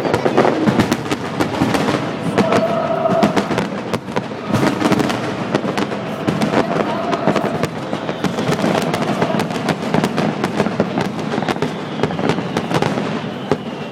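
Aerial fireworks display bursting overhead: a dense, continuous run of sharp bangs and crackling shells, many reports overlapping one another.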